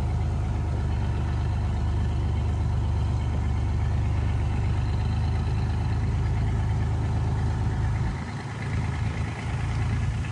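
A log truck's engine idling steadily with a low drone. About eight seconds in, the deepest part of the sound drops away.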